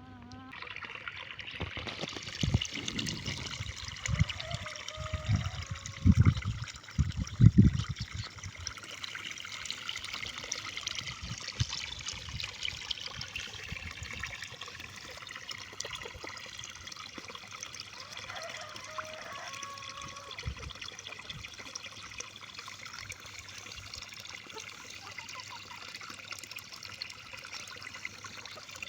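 Steady trickle of running water, with several heavy low thumps in the first few seconds.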